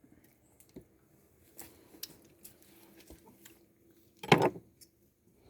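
Faint clicks and scrapes of a fork and food being handled during a meal, with one short louder sound about four seconds in.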